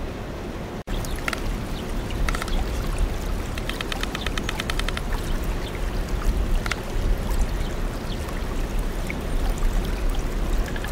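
Steady trickling, flowing water, with a few short high chirps and a rapid, evenly pulsed trill around four seconds in.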